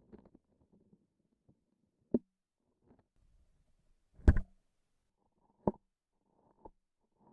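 Close-miked handling of a transparent sticky object: a few separate short sticky pops and taps as it is pressed and released, the loudest a double pop about four seconds in, with faint rustling in the first second.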